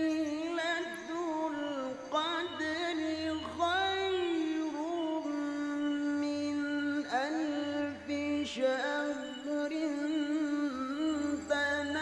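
Background music: a voice singing a slow melody with long held notes and sliding, ornamented turns.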